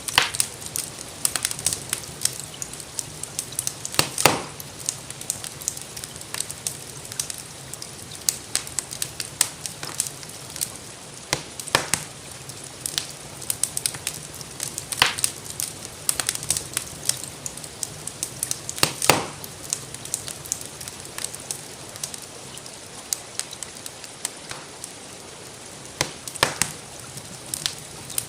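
Wood fire crackling in a fireplace, with frequent small snaps and a louder pop every few seconds, over a steady hiss of rainfall.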